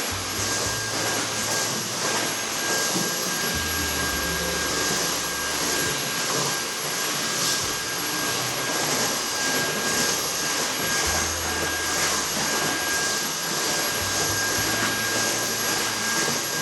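A steady, loud rushing noise of a running motor and airflow, like a household appliance, with a constant thin whine. Low tones underneath change every few seconds.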